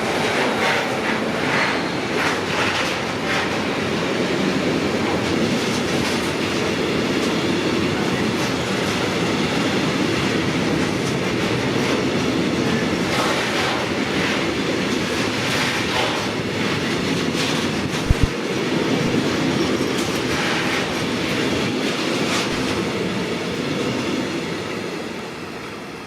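Long train passing close by with a steady rail rumble and repeated wheel clicks over the rail joints, fading away near the end.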